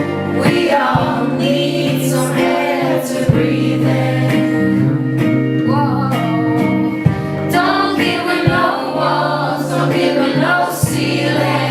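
Live indie soul band playing: a female lead voice singing over guitar and steady low notes.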